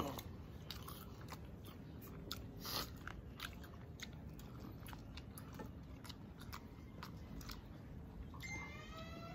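Close-up chewing and biting, with small crunches and wet mouth clicks from someone eating. A short rising pitched sound comes near the end.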